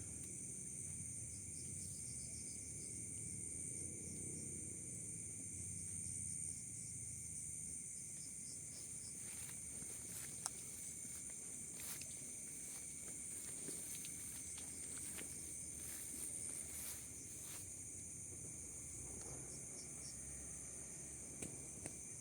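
Forest insects, crickets among them, chirring steadily in a high-pitched drone, with a second, lower steady insect tone beneath. Scattered sharp clicks and snaps come through from about nine to eighteen seconds in.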